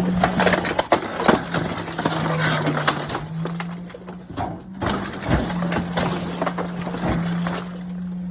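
Garbage truck compactor crushing a kitchen stove: repeated cracks, snaps and crunches of breaking metal and panels over the steady hum of the truck's hydraulics, which sags in pitch now and then under load.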